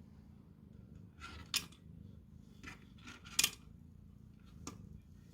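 Several short, sharp plastic clicks and rattles from a Catit food tree treat puzzle, the loudest about three and a half seconds in.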